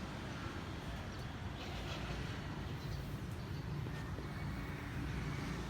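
Low, steady rumble of a distant Airbus A330-243F freighter's Rolls-Royce Trent 700 jet engines during takeoff, with faint bird chirps above it.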